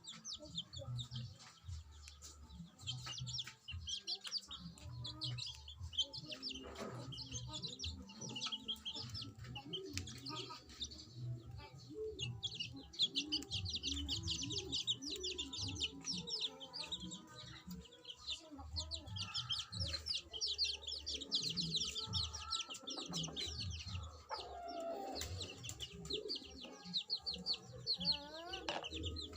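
Birds calling: dense, fast high-pitched chirping continues throughout and grows busier about halfway through, over low clucking calls.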